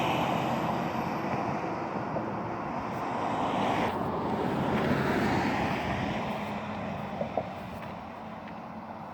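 Vehicle noise: a rush of passing traffic that swells about four to five seconds in and then fades away.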